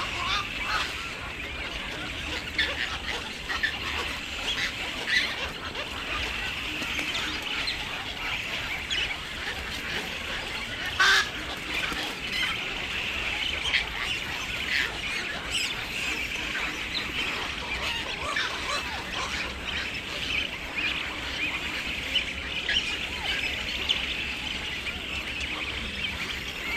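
Many birds calling at once: a dense chorus of short overlapping calls, with one louder call about eleven seconds in.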